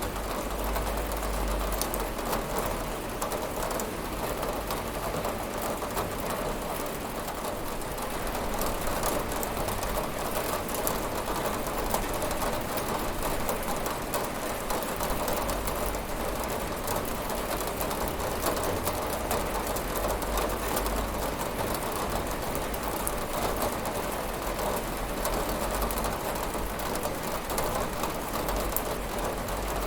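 Steady rain pattering on a window pane, an even hiss with many small drop ticks and no thunder.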